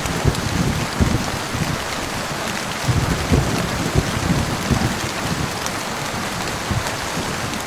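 Heavy rain falling steadily as an even hiss, with irregular low rumbles of thunder underneath.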